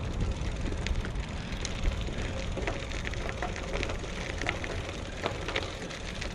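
Riding noise from a Specialized Diverge gravel bike on the move: a steady low rumble of wind and tyres rolling on pavement, with scattered small clicks and ticks.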